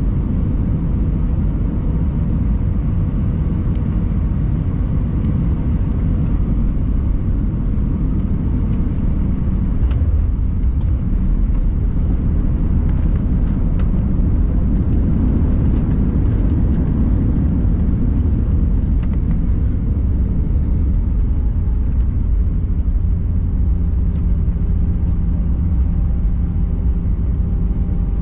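Airbus A320 cabin noise heard from a window seat: a loud, steady low rumble of the jet engines and airflow. Past the middle, a steady engine hum with a few distinct tones comes in over the rumble.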